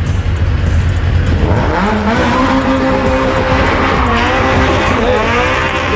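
Car doing a burnout: a low engine rumble, then from about two seconds in the engine is held at high revs with the tyres squealing.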